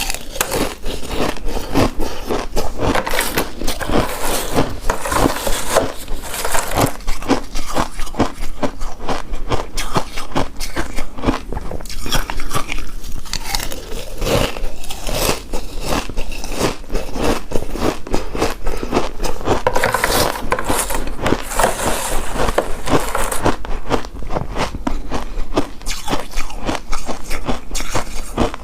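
Close-miked eating of a chewy coconut rice cake: biting and chewing with many small mouth clicks close together throughout.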